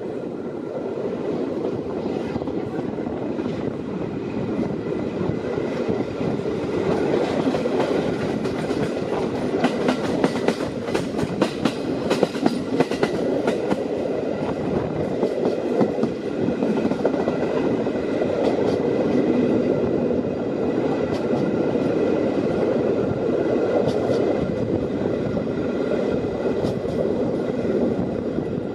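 A train running on rails: a steady rumble of wheels on track, with a run of clicks from the wheels crossing rail joints about a third of the way through.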